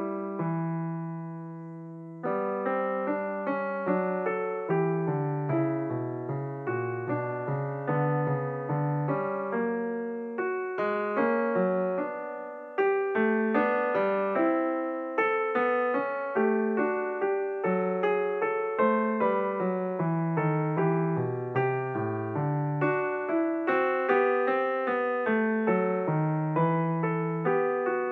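Background piano music: a gentle run of struck notes over a bass line. A held chord dies away near the start before the playing goes on, and a little after twelve seconds in the music drops away and comes back louder.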